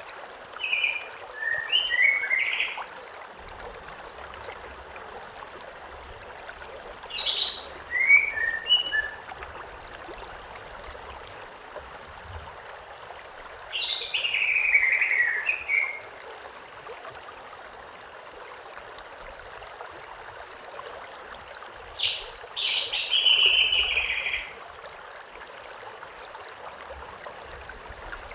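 A songbird singing a short phrase of quick chirps four times, roughly every seven seconds, over the steady rush of a river.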